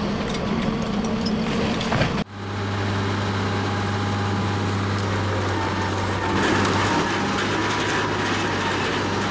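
Heavy machinery running with a steady low hum. About two seconds in the sound cuts abruptly to another steady machine hum, which grows louder and brighter around six seconds in.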